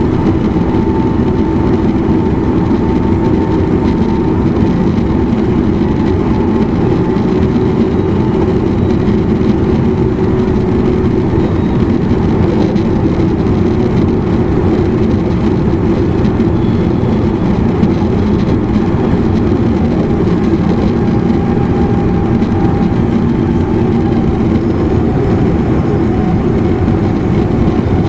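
Running noise inside a JR East E259 series electric multiple unit motor car: a steady rumble of the wheels on the rails, with a faint steady tone above it.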